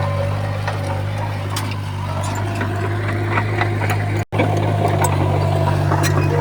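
Komatsu bulldozer's diesel engine running steadily, with scattered clicks and clatter of tracks and stones over it. The sound cuts out for an instant about four seconds in.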